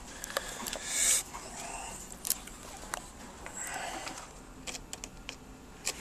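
Small parts being handled and pressed into place by hand: scattered light clicks and taps with two brief scraping rustles.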